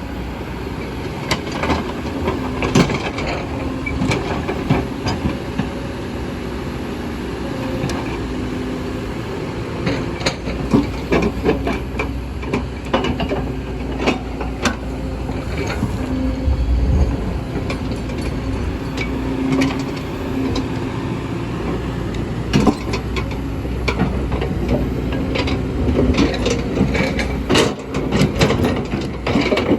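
Kobelco hydraulic excavator's diesel engine running steadily under load while digging into a hillside, with the engine note rising and falling and frequent sharp metal clanks and knocks throughout.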